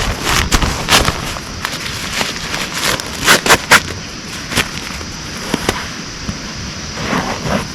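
Steady hiss of rain with irregular sharp knocks and pops scattered through it, the loudest cluster about three to four seconds in.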